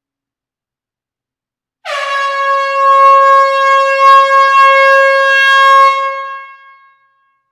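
An air horn sounding one long, steady, loud note that starts abruptly about two seconds in, holds for about four seconds and then fades out.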